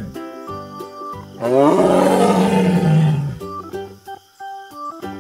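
A tiger roaring once, a single long roar of about two seconds starting about a second and a half in, over light background music.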